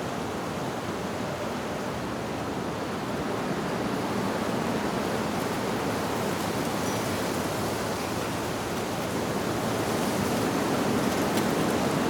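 Steady rush of wind blowing through tree leaves, slowly swelling louder, with a faint wind chime note now and then.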